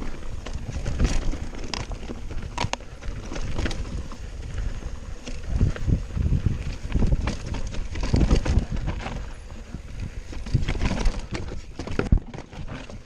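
Mountain bike clattering down a rough trail: frame, chain and wheels rattling with many sharp knocks over an uneven low rumble of wind on the microphone.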